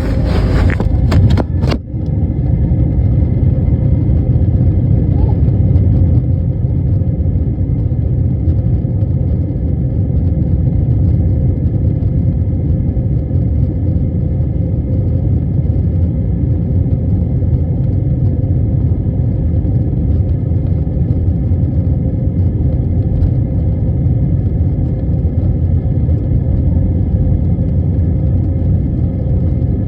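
Jet airliner's engines and airframe making a steady, loud, low rumble, with a few brief crackles near the start.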